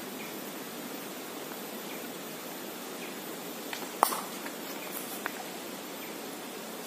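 Steady rushing of river water. A single sharp click about four seconds in, with a few fainter ticks around it.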